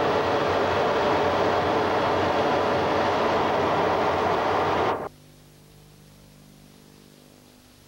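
Steady roar of jet aircraft cabin noise inside an E-3D Sentry in flight. About five seconds in it cuts off abruptly to a much quieter steady hum.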